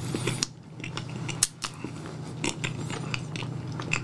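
Close-miked mouth sounds of a person chewing a soft cream-filled bun: a string of wet clicks and smacks, the sharpest about a second and a half in, over a steady low hum.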